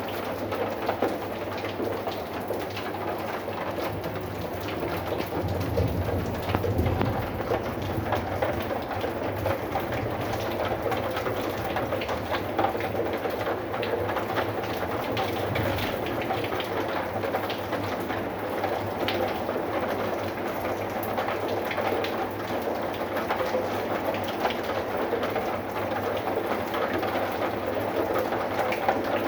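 Steady rain falling, with many individual drops ticking sharply through the hiss. A low rumble swells about six seconds in and briefly again around fifteen seconds.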